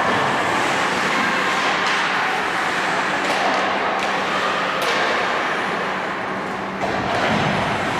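Ice hockey game sounds in an arena: a steady wash of noise with a low hum, broken by a few sharp clacks about three and five seconds in.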